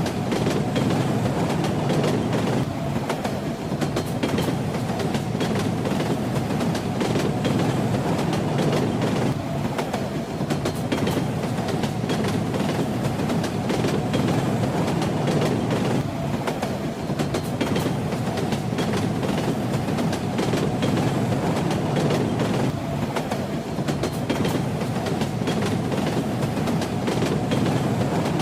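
Steady rumble and clatter of train wheels on the rails, heard from a moving railway carriage, with a faint clicking running through it.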